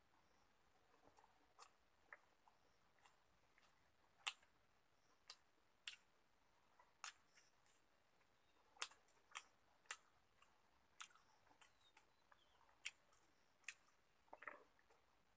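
Faint, sharp mouth clicks and lip smacks of someone chewing a meal, coming irregularly every half second to a second, with a short wetter smacking near the end as another mouthful goes in.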